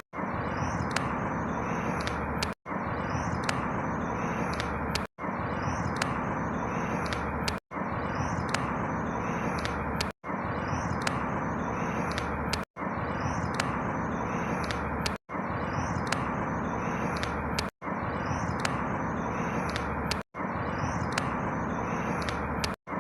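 Outdoor ambience: a steady rushing background with faint bird chirps above it. It is a short recording looped, cutting out for an instant about every two and a half seconds.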